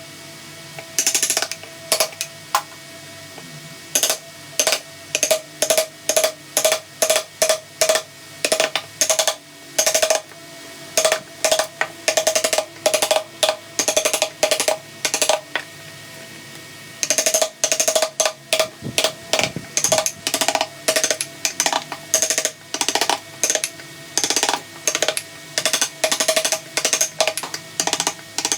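A mallet striking a wood-carving chisel: sharp taps in quick, irregular runs, with a pause of about a second around the middle.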